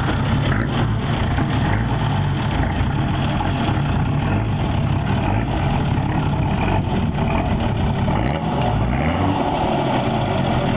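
Nissan Patrol's 4.2-litre straight-six turbo diesel running at low revs under load, its note rising and falling slightly as the 4x4 climbs over rocks.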